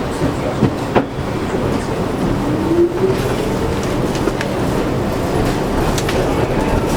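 R62 subway car running, heard from inside the car: a steady rumble with a few sharp wheel clacks, and a whine that rises in pitch a couple of seconds in.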